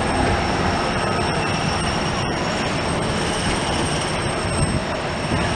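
Disneyland Monorail train running: a steady rumble with a thin high-pitched whine over it.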